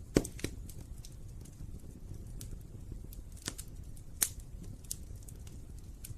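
Wood fire in a fireplace crackling over a steady low rumble of the flames, with scattered sharp pops; the loudest pop comes just after the start and another about four seconds in.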